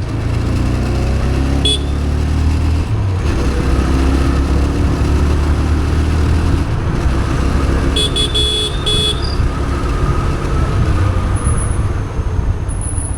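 TVS Raider 125 motorcycle on the move, its engine running under steady wind rumble on the action camera's built-in microphone. A vehicle horn honks a few short times about eight seconds in.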